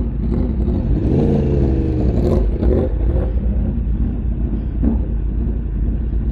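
Riding a motorcycle: wind rushing over the helmet-mounted microphone and the engine running underneath. About a second in, an engine note rises and falls.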